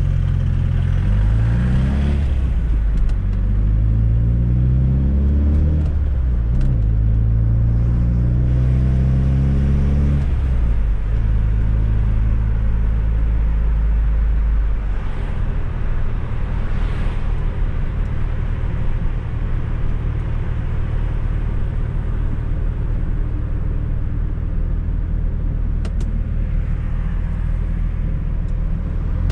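Fiat Coupe 16V Turbo's turbocharged four-cylinder engine accelerating hard through the gears: it rises in pitch, drops at a shift about two seconds in, climbs again, shifts again near six seconds, and pulls once more. About ten seconds in it eases off and then settles into a steady cruise.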